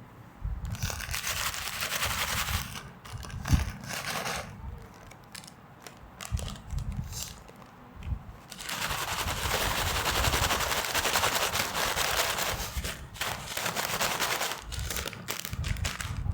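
Plastic snack wrappers being handled and opened, crinkling in long dense stretches with scattered sharp crackles between.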